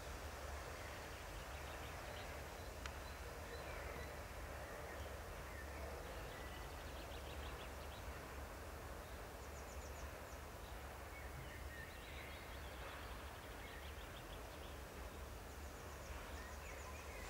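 Small birds chirping and giving short high trills now and then, over a steady low rumble and faint hiss.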